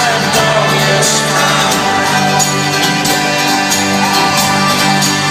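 Live folk-rock band playing, with singing over the instruments, recorded in a concert arena.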